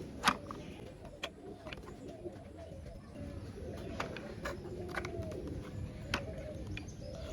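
Scattered sharp plastic clicks and taps, about eight in all, as wheels are pressed onto a toy car-carrier truck.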